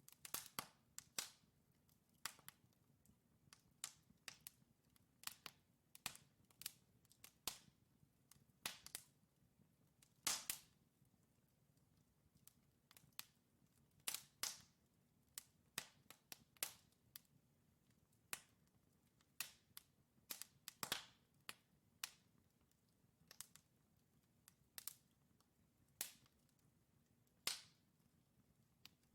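Wood logs burning in a fireplace, crackling with irregular sharp pops, one to three a second and some louder than others, over a faint low rumble of the flames.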